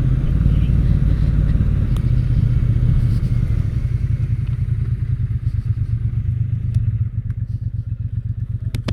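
Motorcycle engine running on the road and easing off, its low sound slowly getting quieter. In the last couple of seconds the engine's beats come apart into separate pulses as it slows, then the sound drops away sharply.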